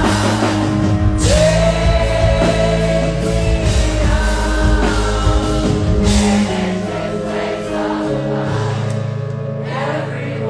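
Live music: a singer's long held notes over accompanying instruments and a steady low bass.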